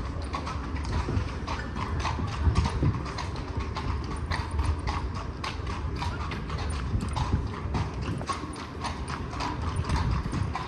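Horses' iron-shod hooves clip-clopping on cobblestones at a walk, over the low rumble of the carriage wheels.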